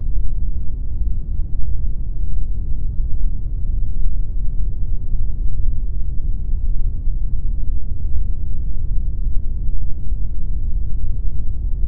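Continuous pink noise, a steady even rush with no variation. It is weighted heavily toward the deep end, a low rumbling hiss with almost no high treble.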